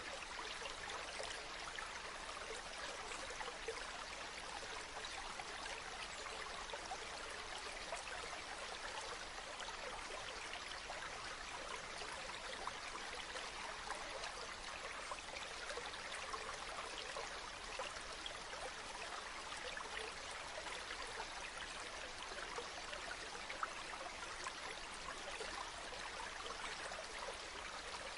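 Running water, a small stream trickling and splashing, steady and unbroken.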